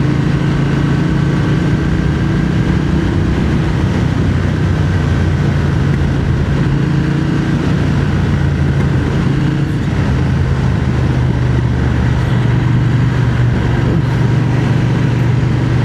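Triumph Speed Twin 1200's parallel-twin engine running steadily while riding, heard through a helmet-mounted microphone with a steady rush of wind.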